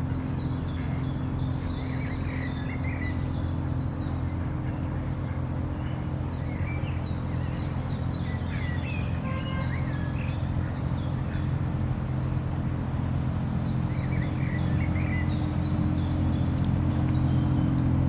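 A small songbird singing short repeated phrases of high, quick notes, three bursts of song a few seconds apart, over a steady low hum.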